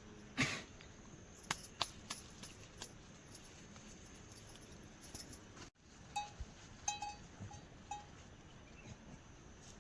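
A small bell on livestock clinks several times in the second half, each strike short and ringing, over a steady hiss of rain. Earlier there are a few sharp clicks and one short loud sound near the start.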